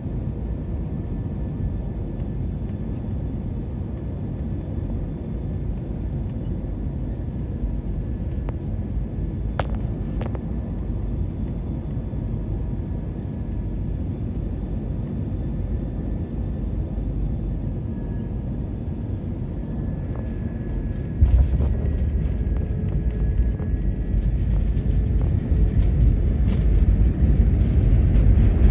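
Airbus A321 cabin noise, a steady low rumble with a faint whine. About three-quarters of the way through, a sudden thud and a heavier rumble set in and grow louder: the main wheels touching down and the rollout on the runway.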